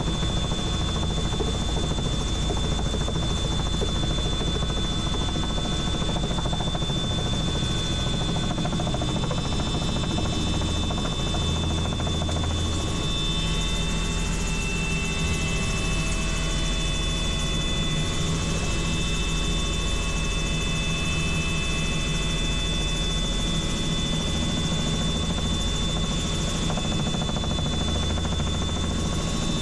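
Helicopter running in steady cruise flight, heard from inside the cabin: a constant rotor and turbine din with a steady high whine.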